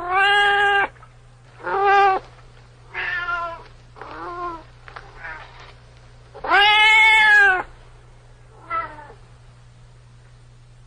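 A domestic cat meowing over and over, about seven meows of varying length with short gaps between them. The longest and loudest meow comes about two-thirds of the way in. A low steady hum runs underneath.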